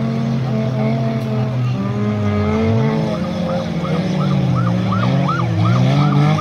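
Banger-race car engine revving hard on a dirt track, its pitch rising and falling over and over as the throttle is worked through a slide.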